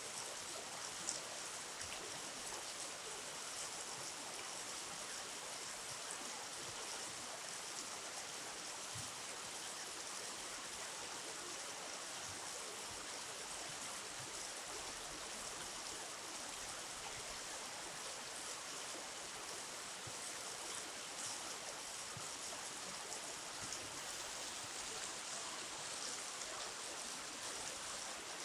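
Steady rush of flowing river water, with one short click about a second in.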